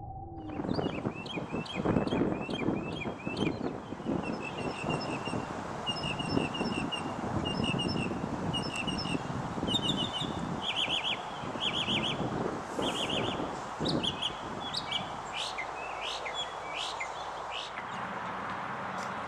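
Small birds singing: series of short repeated chirps, then faster trills and quick sliding notes later on, over an uneven low background rumble.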